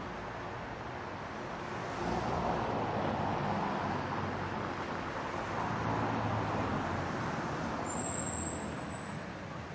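City street traffic: a steady rush of passing cars, swelling louder for several seconds as vehicles go by close, with a brief high squeal near the end, like brakes.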